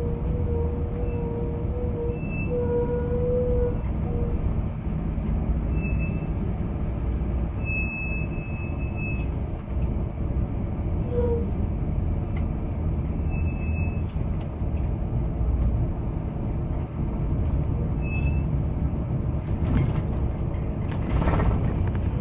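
Steady low rumble of a moving vehicle, heard from inside, with a hum early on and a few short, faint high beeps; a brief rattling noise comes about twenty seconds in.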